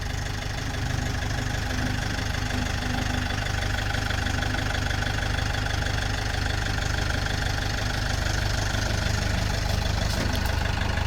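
Vehicle engine running steadily at low revs with an even rumble, pulling a load on a tow strap.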